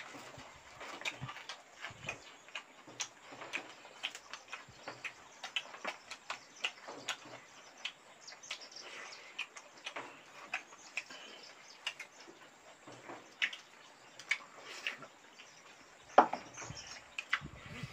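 Close-miked eating sounds: wet chewing and lip-smacking, a stream of irregular mouth clicks several times a second, with one louder smack near the end.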